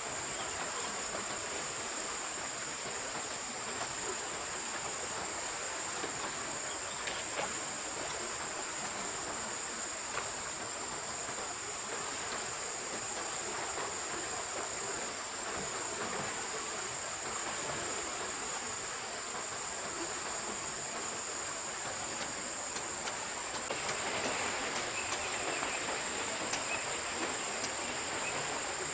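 Steady high-pitched drone of insects over the even rush of a forest stream. A second, lower chirring joins about three quarters of the way through, with a few light clicks.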